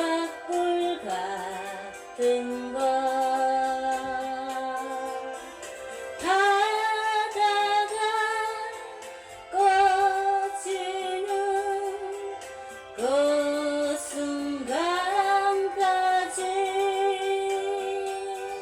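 Woman singing a slow Korean folk ballad in long, drawn-out phrases, the notes held with vibrato and scooped up into at their starts, over soft backing music.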